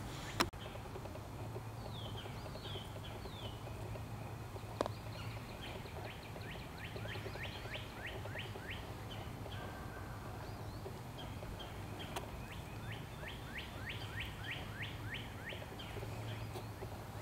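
A songbird singing in the woods: two runs of quick, downward-slurred notes repeated in a trill, with a few single slurred notes before them, over a steady low background hum. A sharp click just after the start.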